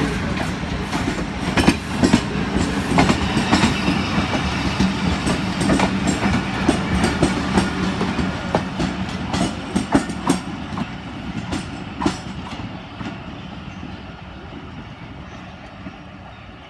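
Passenger train coaches rolling slowly past, wheels clacking over the rail joints. The sound fades away over the last few seconds as the end of the train moves off.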